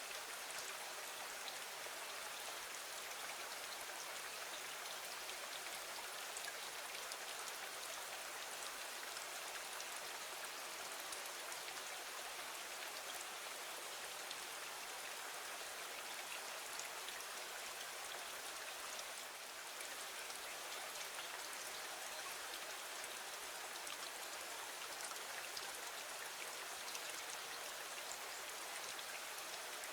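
Steady rain falling against a window, an even hiss of many fine drops with scattered small ticks.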